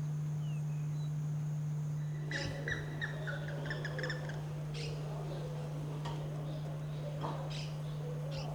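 Songbird calling: a quick run of chirping notes about two seconds in, then scattered single sharp chip notes, over a steady low hum.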